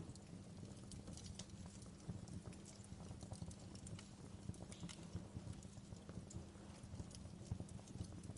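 Wood fire crackling: irregular small pops and snaps over a low, steady rumble of the flames.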